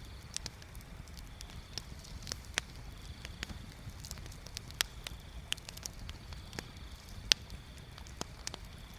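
Wood bonfire crackling, with irregular sharp pops and snaps scattered throughout and one louder pop a little after seven seconds in.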